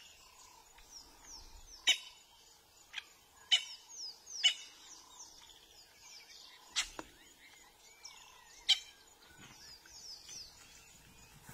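Wild birds calling: repeated runs of short, quick falling chirps, with five sharp, loud call notes standing out about two, three and a half, four and a half, seven and nine seconds in.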